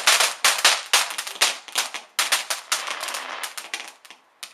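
Fireworks going off in a dense run of sharp cracks and bangs, one after another, that thins out and stops in the last half-second.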